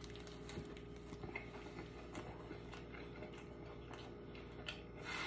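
Faint chewing of a big mouthful of burger: small scattered mouth clicks over a low steady hum.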